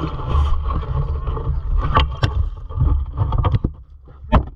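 Low rumble of a small fishing boat on wind-chopped water, with several sharp knocks: a couple about two seconds in, a cluster a second later, and one louder knock near the end.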